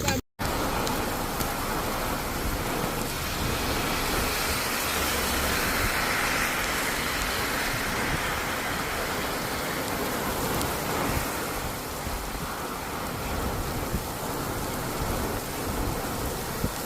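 Heavy rain falling steadily: an even, unbroken rushing hiss, starting after a brief dropout at the very beginning.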